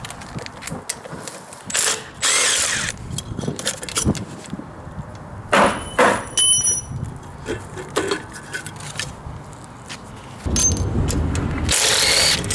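A handheld power tool runs in several short bursts, with sharp clicks and clinks of tools and metal parts between them, as bolts are taken off the Ford 5.0 V8's intake manifold. The longest and loudest burst comes near the end.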